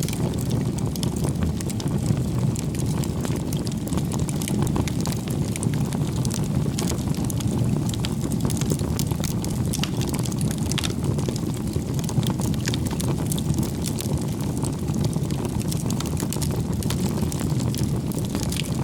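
Bonfire burning: a steady low rush of flames, with frequent sharp crackles and pops from the burning wood.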